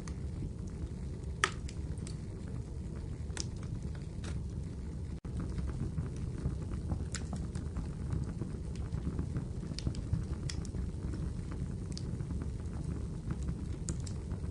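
Wood fire crackling in a fireplace: a steady low rumble of flames with scattered sharp pops and snaps from the burning logs. There is a momentary dropout about five seconds in.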